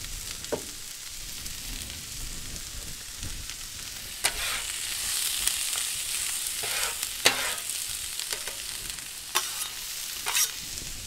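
Onions, mushrooms and bacon sizzling in oil on a steel flat-top Blackstone griddle, a steady frying hiss. A metal bench scraper and spatula scrape and clack on the griddle top several times as the vegetables are pushed around.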